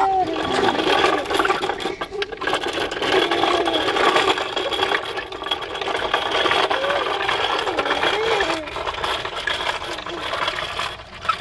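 Pet green bird chattering and warbling continuously: a busy, scratchy stream of chatter with short squeaky pitch twists, fading near the end.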